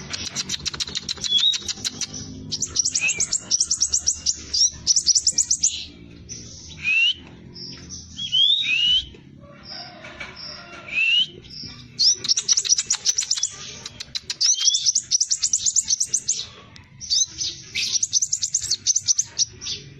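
Scarlet minivet (sepah raja) singing: fast, dense, high rolling trills in runs of one to two seconds, broken by rising whistled sweeps and a few short separate notes.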